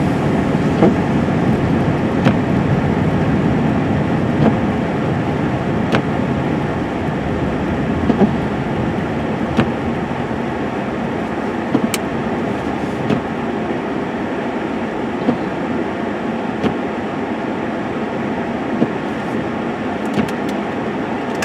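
Steady road and engine noise heard from inside a moving truck's cab, with light clicks or knocks every second or two.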